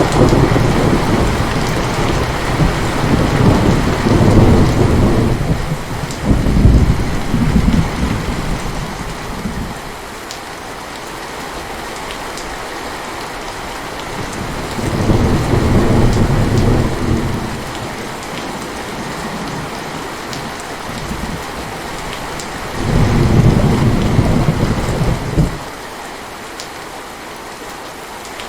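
Steady heavy rain with rolls of thunder: a long rumble through the first ten seconds or so, another about halfway through, and a third that cuts off sharply near the end.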